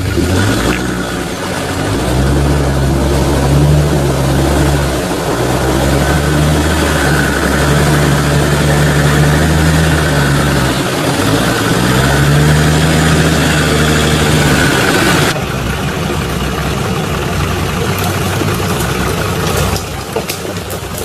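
An off-road 4x4's engine revving under load, its pitch holding high for several seconds, dropping briefly about eleven seconds in and climbing again, then easing back to a lower running sound about fifteen seconds in.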